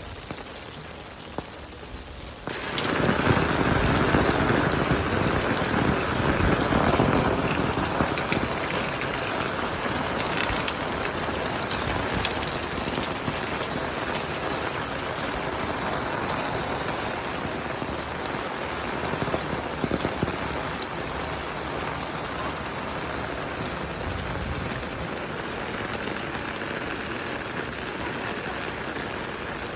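Heavy rain falling, a steady hiss of water. About two and a half seconds in it jumps suddenly louder and stays heavy, easing slightly after a few seconds.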